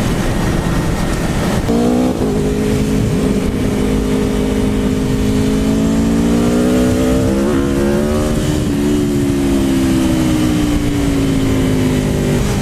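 Aprilia Tuono V4 1100 Factory's V4 engine under way, with a steady rush of wind. The engine note climbs about two seconds in and holds. It changes gear about eight seconds in, then slowly drops.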